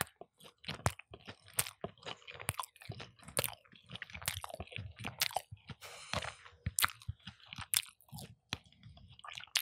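Close-miked chewing of crispy chicken: irregular wet crunches and bites as a mouthful is chewed deliberately loud for a mukbang.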